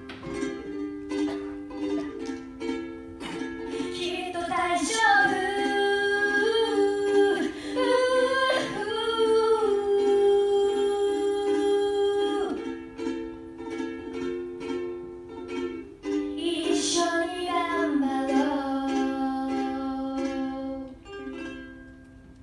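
Ukulele strummed in steady chords while a woman sings long held notes over it; the playing thins out and fades near the end as the song closes.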